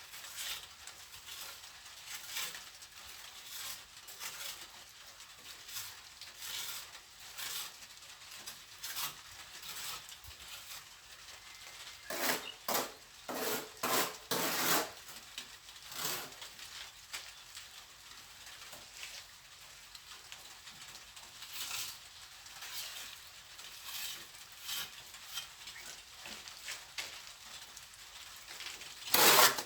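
Plastering trowel scraping and spreading cement mortar in short, irregular strokes, with a cluster of louder strokes about twelve to fifteen seconds in and one loud scrape near the end.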